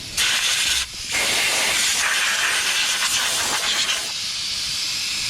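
Pressurised spray hissing from a nozzle over the cleaned fuel injectors, in two bursts: a short one, then a long one of about three seconds that eases a little near the end.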